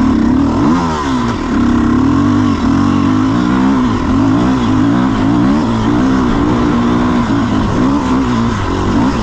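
Dirt bike engine running under load, revving up and easing off again and again, its pitch rising and falling as the rider works the throttle.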